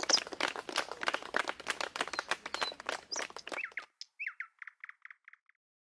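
Scattered hand-clapping with bird chirps over it, which cuts off abruptly a little under four seconds in. A bird then sings a short run of about six quick repeated notes on its own.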